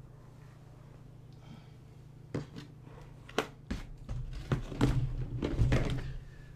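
A few sharp knocks, then a cluster of loud, dull thumps and rustling about four to six seconds in, over a steady low hum.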